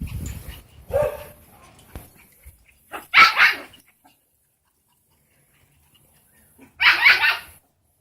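Small papillon dog barking in two quick bursts of sharp, high-pitched yaps, about three seconds in and again near seven seconds, with softer sounds before them.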